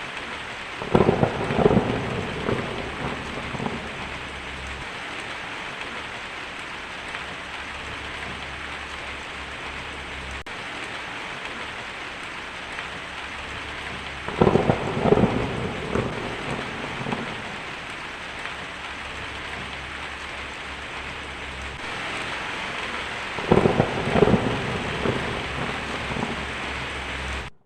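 Heavy rain falling on a tin roof, a steady hiss, with three rolls of thunder: one about a second in, one about halfway through, and one near the end, each rumbling on for a few seconds.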